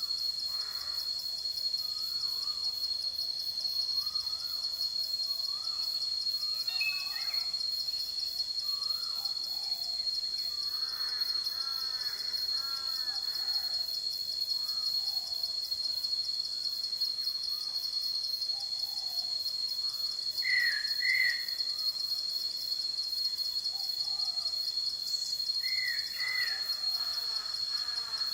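Forest ambience: a steady, high insect trill runs throughout, with birds calling over it in short, wavering whistled notes. Two pairs of louder, sharper chirps come about two-thirds of the way through and again near the end.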